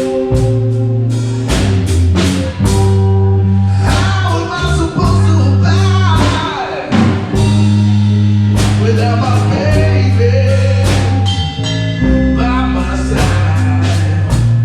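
Live blues band playing a slow blues: drums keeping a slow beat, bass and guitars sustaining the chords, and a lead line with bent, sliding notes filling the gap between sung lines.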